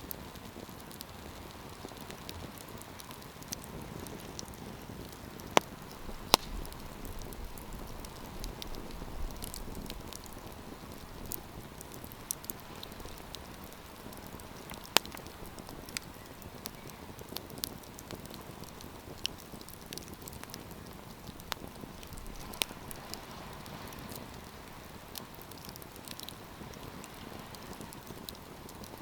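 Wood campfire crackling: a steady soft hiss of burning with sharp pops and snaps scattered irregularly through it, a few of them markedly louder.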